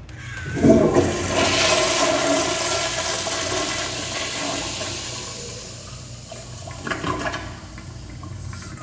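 American Standard toilet flushing: a sudden loud rush of water about half a second in that slowly tapers off, with a brief second surge about seven seconds in.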